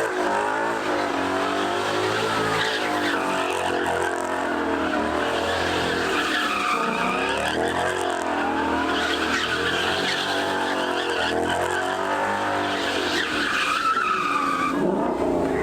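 Car engine revving up and down again and again while the tyres squeal and skid.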